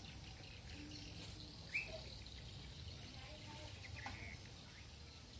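Quiet outdoor background with a few brief bird chirps, the clearest about two seconds in and another near four seconds.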